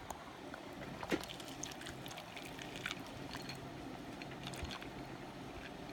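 Milk being poured from a bottle into a bowl of cereal: a faint, steady pour with a few light clicks.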